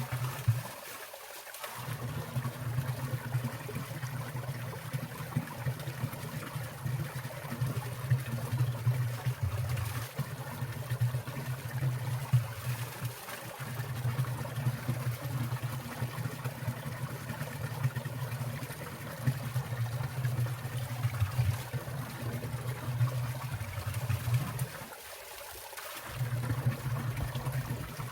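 Winter valley stream trickling and splashing, with a low steady burble that breaks off briefly three times.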